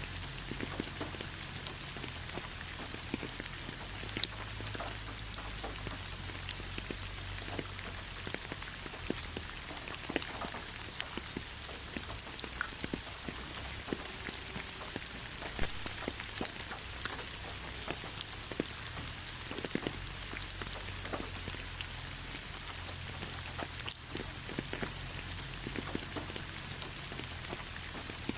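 Steady rain: an even hiss of falling rain with many separate drops striking close by, heard as sharp ticks scattered throughout.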